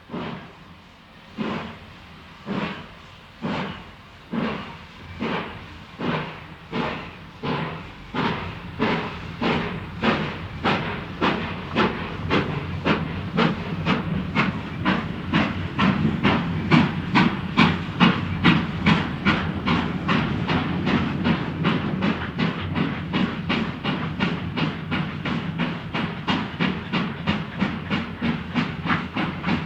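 Steam locomotive starting away and gathering speed: exhaust chuffs at first about one every second and a half, quickening steadily to about three a second, with a low rumble building underneath as it gets going.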